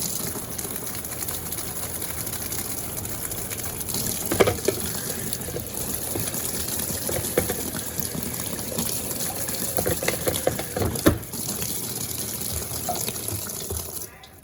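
Running water gushing steadily into a washing machine tub over the clothes and rinsing the tub bottom, with a few light knocks, then cutting off suddenly near the end.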